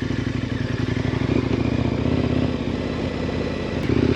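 2018 KTM 1090 Adventure R's 1,050 cc LC8 V-twin engine running steadily at a low riding pace, getting louder again near the end.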